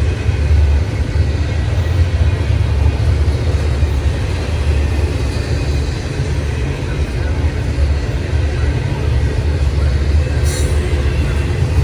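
A train passing with a steady heavy low rumble and a brief high hiss about ten seconds in.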